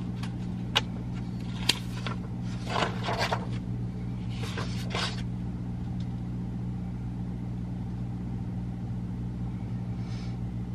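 Steady low hum of a car idling, heard inside the cabin. Paper rustles and crinkles a few times in the first half as sheets of paper are handled, with two small sharp clicks near the start.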